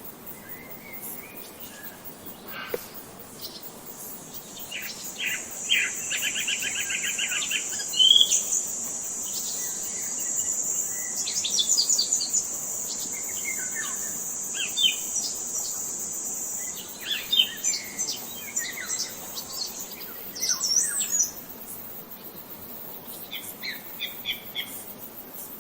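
Several birds chirping and singing in a mix of short calls and quick trills, over a steady high-pitched buzz that starts about four seconds in and stops near twenty seconds.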